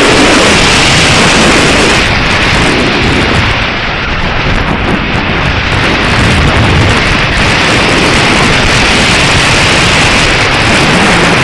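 Strong wind buffeting the microphone: a loud, steady rushing noise with no other clear sound, easing slightly for a few seconds about two seconds in.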